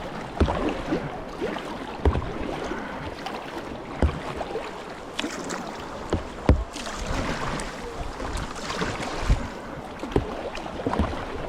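Kayak paddle strokes in moving river water: irregular splashes and knocks every second or two over a steady rush of current.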